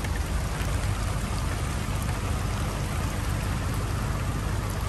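Steady rain falling, with a low steady rumble underneath.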